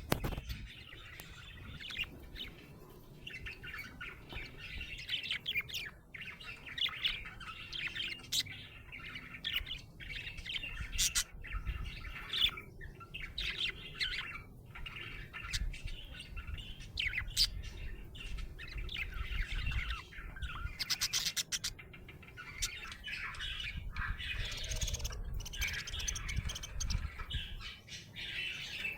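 Budgerigars chattering: continuous rapid chirps, warbles and the odd squawk, with a low rumble underneath.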